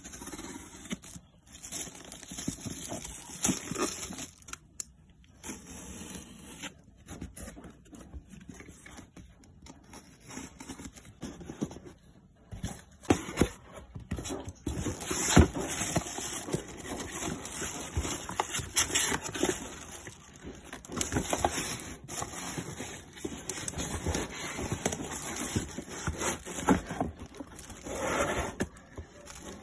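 Skincare products and their packaging being unboxed by hand: irregular taps, clicks and rustling, busier and louder from about halfway through.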